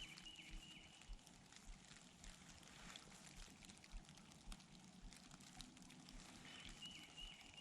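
Near silence: faint outdoor ambience with scattered light ticks and a faint high whistle near the start and again near the end.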